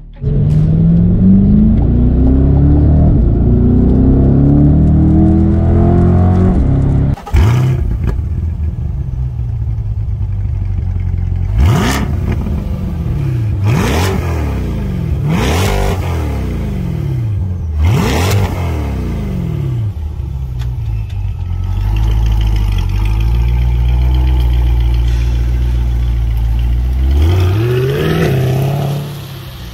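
Chevrolet Corvette C8 Stingray's 6.2-litre V8 exhaust: the revs climb slowly over the first several seconds. Then four sharp rev blips rise and fall over a steady idle while it stands still. Near the end it revs up and pulls away.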